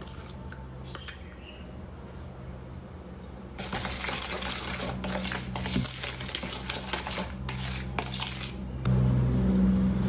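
Kitchen utensils clinking and scraping against dishes, soft at first, then a busier stretch of rattling from about four seconds in. Near the end a louder steady motor hum starts up.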